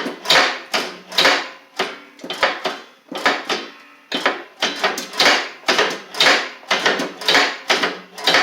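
Lawn tractor mower deck's blade-brake arm mechanism, with new springs and return spring fitted, being worked back and forth by hand. It makes repeated sharp metal clacks about once a second, each ringing briefly.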